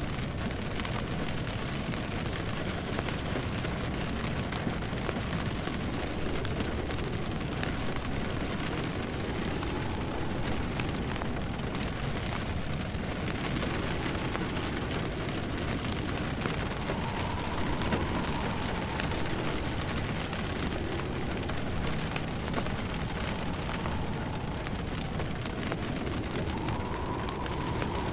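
Steady rain with a wood fire crackling, scattered small pops over the rain.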